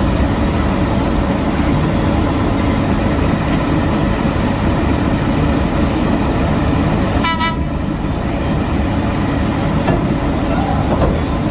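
Heavy road-construction machinery engines running steadily, with one short, high toot of a horn or beeper about seven seconds in.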